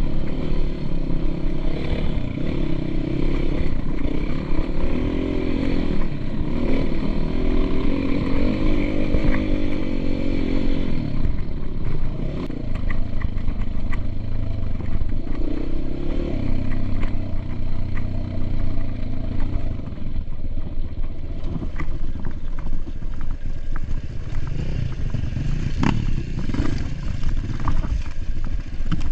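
Motocross dirt bike engine running as it is ridden, its pitch rising and falling with the throttle, with clattering and rattling throughout; the engine note is strongest in the first eleven seconds or so, then eases off.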